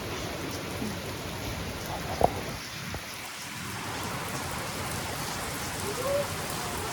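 Heavy rain pouring steadily onto surfaces, with one sharp tap about two seconds in.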